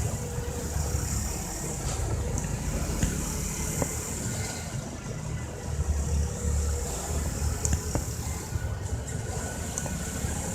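Steady road and traffic noise with a low rumble, heard from a bicycle riding along a city road, with a few faint clicks.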